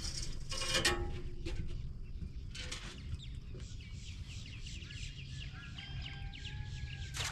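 Birds calling in quick, chattering notes over a steady low rumble, with a couple of longer held notes near the end.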